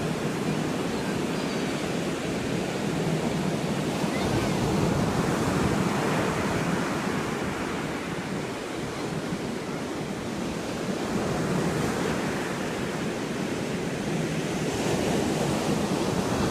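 Ocean surf washing on the shore, a steady rush that swells and eases every few seconds, with some wind on the microphone.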